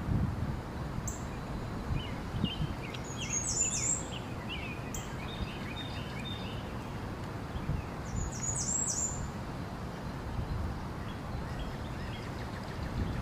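Birds chirping outdoors, with two clusters of high, quick chirps about a third of the way in and again past the middle, and scattered lower chirps early on, over a steady low outdoor rumble.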